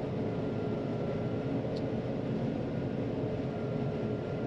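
John Deere 9500 combine running steadily while harvesting soybeans, an even machine noise with a constant hum and a fainter high whine.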